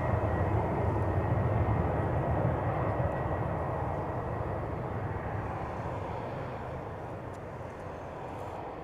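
Jet airliner's engines roaring on takeoff, steadiest in the first few seconds and then fading as the aircraft climbs away.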